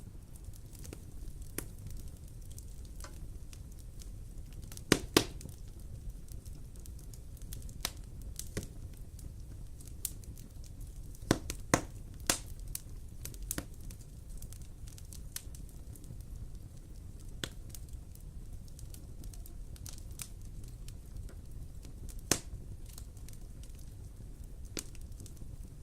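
Wood fire burning in a fireplace: irregular crackling over a low steady rumble, with a few sharp louder pops, a pair about five seconds in and a cluster a few seconds later.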